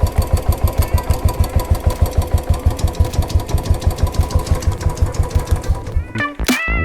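Royal Enfield Classic 350 single-cylinder engine idling with an even, rapid beat of about seven firing pulses a second, running smoothly on a freshly fitted battery. About six seconds in it cuts off and electronic music begins.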